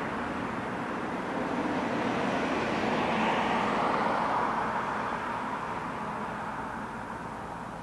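A vehicle passing by: its road noise swells to a peak about halfway through, then fades away.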